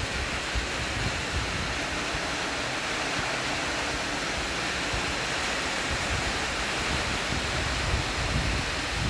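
Steady rain falling, an even hiss, with low irregular wind rumble on the microphone.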